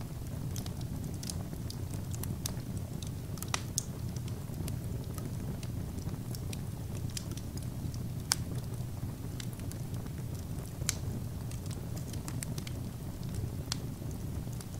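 Fire burning in a fireplace, crackling: a steady low rumble with scattered sharp pops, irregularly spaced, the loudest about eight seconds in.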